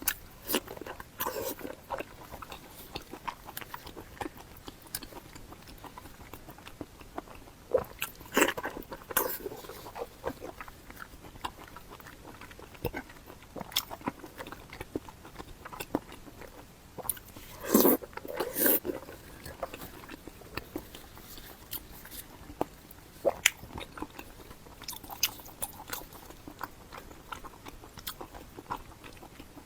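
Close-miked eating: a person biting and chewing food, with irregular mouth clicks and smacks and a few louder crunchy, wet bursts about eight seconds in and again around eighteen seconds in.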